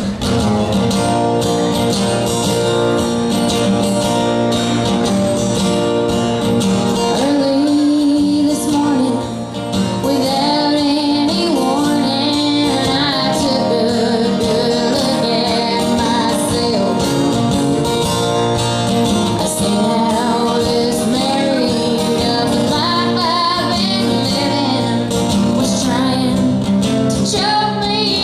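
Live country band playing a song with guitar, and a woman singing lead.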